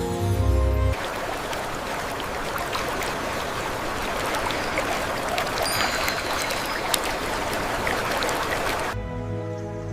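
Running water, the steady rush of a stream or small waterfall. Music stops about a second in and comes back near the end.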